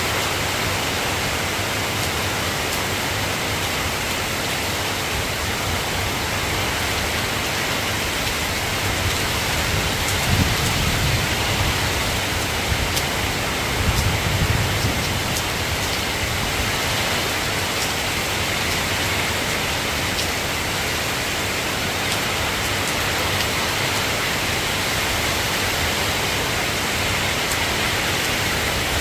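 Steady rain falling, with two low rumbles of thunder about ten and fourteen seconds in.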